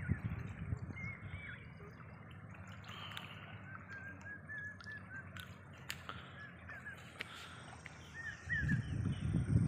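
Birds calling in short, repeated chirps over a low outdoor rumble, which grows louder near the end.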